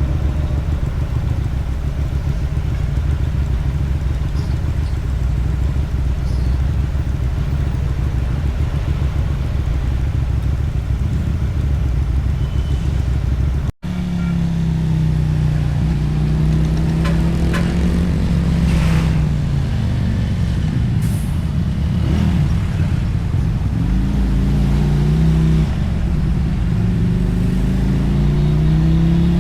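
Motorcycle engine and exhaust heard from the rider's position while riding. The first half is a steady low drone; after a brief break about halfway, the engine pitch rises and falls several times with throttle and gear changes.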